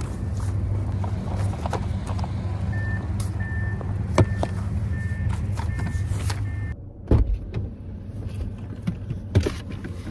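Car engine running, heard from inside the car, with a high electronic beep repeating about twice a second. Nearly seven seconds in, the engine and the beep cut off together, and a few thumps follow.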